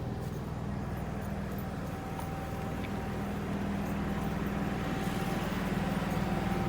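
Ford V10 engine of a motorhome idling with a steady low hum that grows slightly louder in the second half.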